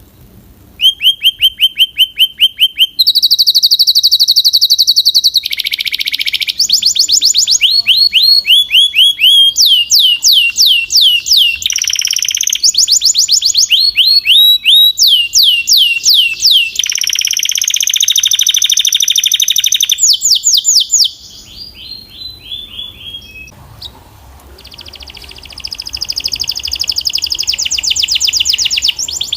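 Domestic canary singing: a long, high-pitched song made of fast trills and runs of rapidly repeated falling notes, changing from one phrase to the next every few seconds. The song drops to a softer passage a little past the middle, then the fast trills build again near the end.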